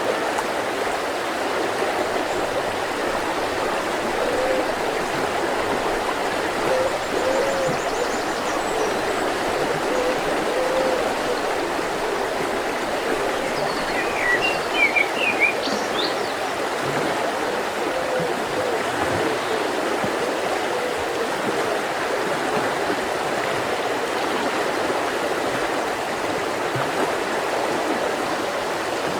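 Mountain river flowing steadily over rocks. A bird gives a short run of high chirps about halfway through.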